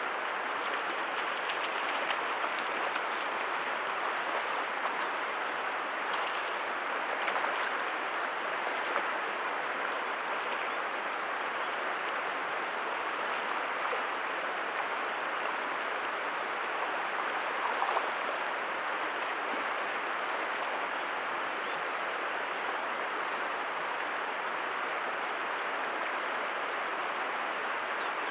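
Steady rush of flowing stream water, an even noise that does not change through the stretch, with a few small splashes or knocks.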